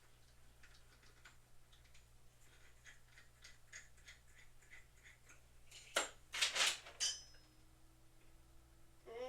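Faint, even ticking about three times a second, then about six seconds in a short cluster of loud rustling or scraping noises lasting about a second.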